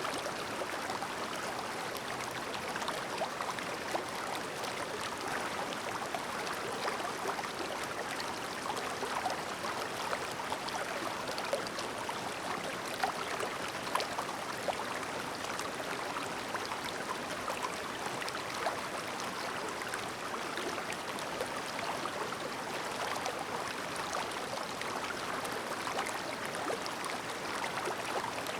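A clear, shallow mountain stream babbling steadily over rocks, with small irregular splashes and trickles.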